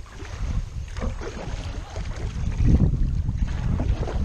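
Kayak paddling on a river: irregular paddle strokes splashing in the water, with wind rumbling on the microphone.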